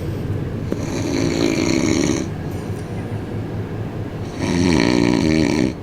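A person snoring close by: two long, rattling snores about three seconds apart, over the low rumble of the train.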